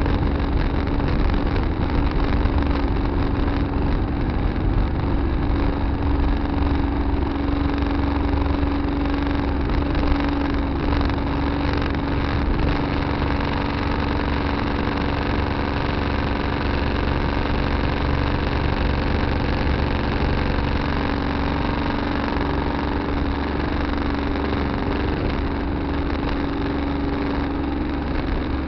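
Tractor engine running steadily at an even pitch, picked up by a dash camera on the tractor.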